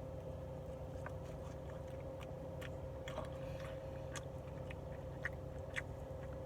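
A person chewing food, with scattered short clicks and taps, over a steady electrical hum.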